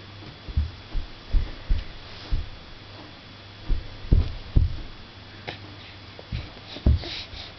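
Soft, irregular low thumps of a baby's hands and knees patting the floor as she crawls, over a steady low hum.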